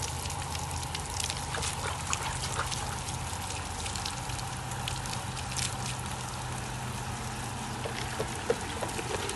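A 1/2 HP sump pump draining a bucket of water: a steady trickling, pouring flow of water, with a steady low motor hum underneath.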